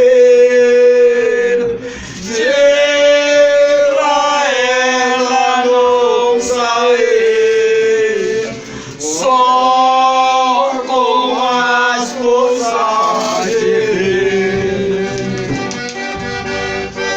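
Folia singers holding long, drawn-out sung notes with instrumental accompaniment, pausing briefly twice between phrases.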